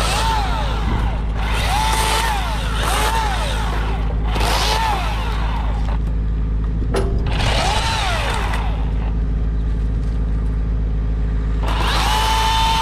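Chainsaw revving in short repeated bursts, each rising and falling in pitch, with a longer run at full throttle near the end, over a steady idling engine.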